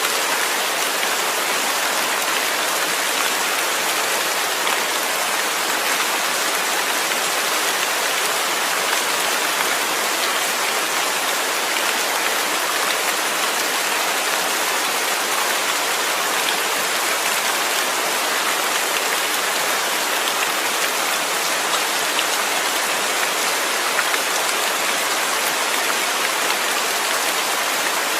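Steady, even rain falling, a continuous hiss of many small drops hitting a surface.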